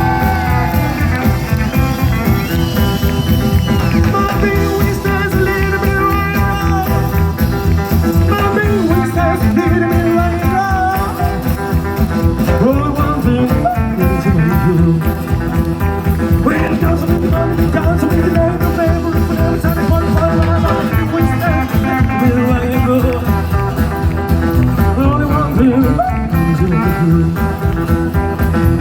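Rockabilly band playing live on stage, a steady, fast beat running throughout.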